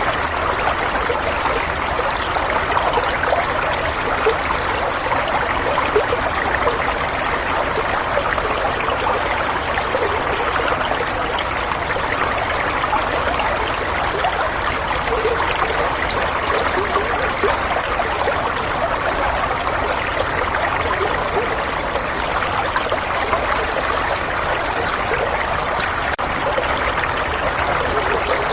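Running water, a steady babbling stream flowing over stones, unchanging throughout.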